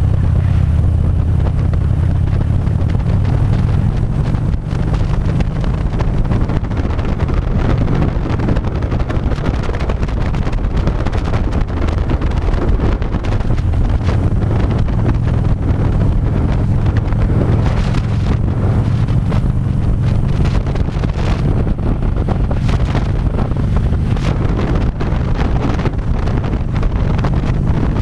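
Harley-Davidson V-twin engine running steadily under way, with wind buffeting the microphone in gusts, more often in the second half.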